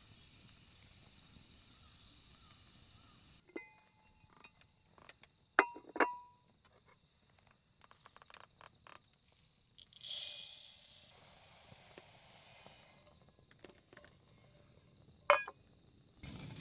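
Faint steady insect chirping, then a few light clinks and knocks, two of them ringing briefly about six seconds in, a hissing rush lasting about three seconds just past the middle, and one more sharp clink near the end.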